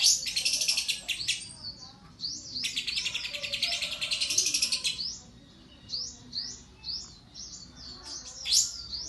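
Lovebird singing: two long, rapid, high chattering trills, then a run of separate short, sharp chirps. The song carries mimicked phrases of the pied triller (kapas tembak).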